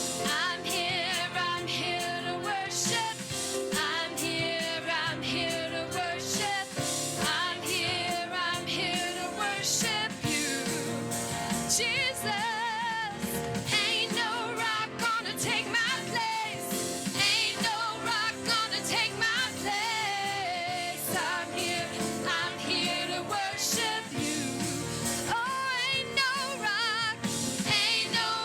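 Live church worship music: singers with a band, the voices wavering with vibrato over steady guitar-led accompaniment.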